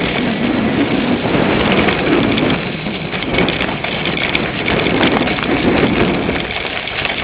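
Wind rushing over a bike-mounted camera's microphone, mixed with the rumble and light rattle of a cyclocross bike ridden over rough ground.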